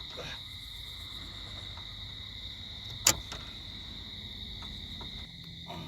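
Steady high-pitched night insect chorus, with one sharp click about three seconds in.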